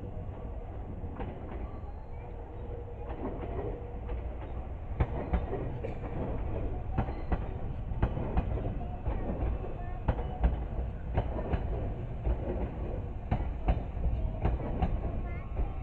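Meitetsu electric train going through a depot train wash: a steady low rumble with many irregular clicks and knocks, which come thicker and louder from about five seconds in.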